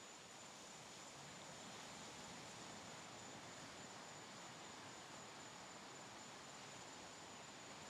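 Faint, steady hiss of distant ocean surf with no distinct breaking waves, and a thin, steady high-pitched tone running through it.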